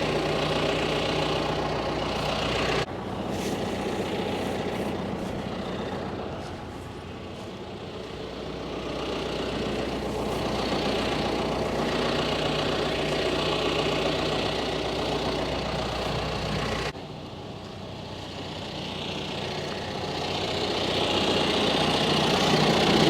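John Deere tractor engine running steadily at low speed, its loudness swelling and easing, with sudden drops about three and seventeen seconds in.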